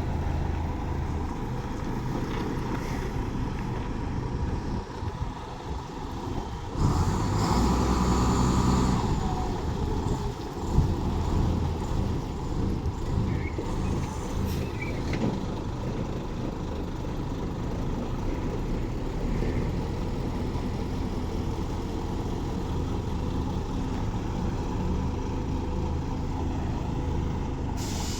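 Tanker truck engine running steadily. About seven seconds in, a louder stretch of noise lasts about two seconds, and a sharp knock follows a couple of seconds later.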